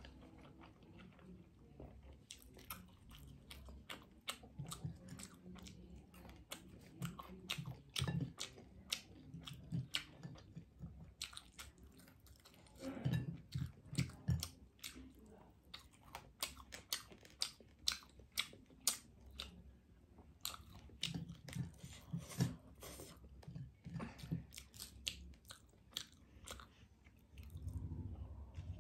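A person eating spicy ramen noodles and fried chicken close to the microphone: a steady run of wet mouth clicks and smacks from chewing. The loudest bites come about halfway through.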